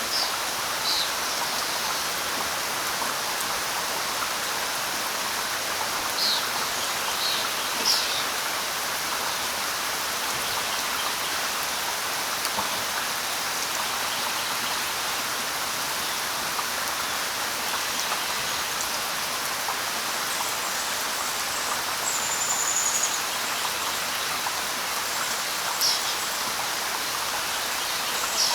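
Steady light rain falling on leaves and ground. Brief high bird chirps come now and then: a few near the start, a cluster about six to eight seconds in, a short falling whistle past the middle, and more near the end.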